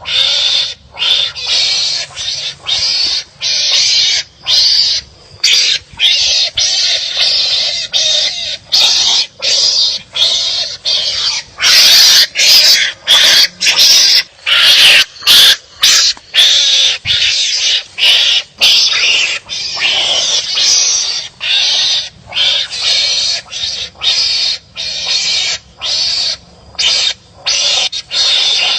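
Animals barking and squabbling at each other, harsh noisy calls repeated in quick short bursts, two or three a second, loudest through the middle stretch.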